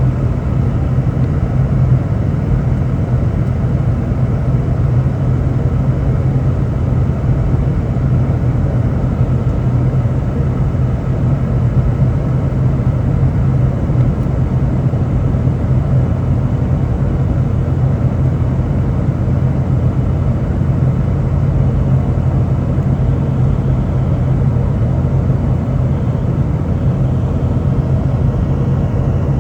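Steady loud cabin rumble of a Boeing 717-200 under power, from its rear-mounted Rolls-Royce BR715 turbofans and airflow, with a strong low hum running under it.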